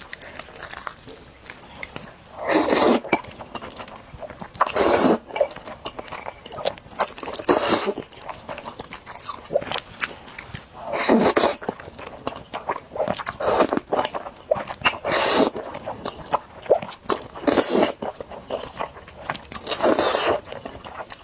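Close-miked eating of sticky spicy noodles: about eight loud slurps, one every two to three seconds, with wet chewing and mouth clicks between them.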